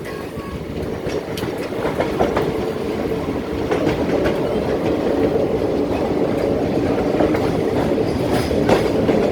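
Kanchanjangha Express passenger train running on the rails: a steady rumble with occasional sharp clicks, growing a little louder over the first few seconds.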